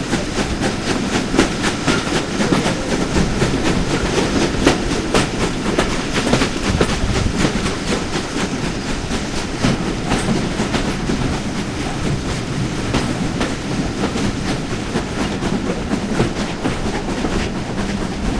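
Passenger train coach running along the track, its wheels clicking over rail joints over a steady rumble, heard from an open carriage window.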